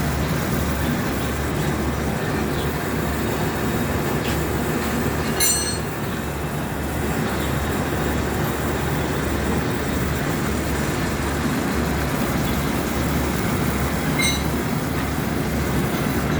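Power tool running steadily against an iron plate with a harsh, continuous grinding noise. Two brief high metallic rings come about five seconds in and near the end.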